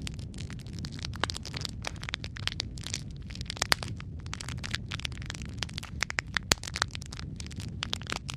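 Wood logs burning in a fireplace: constant crackling, with many sharp pops every second and a few louder snaps around the middle, over a low steady rumble of the flames.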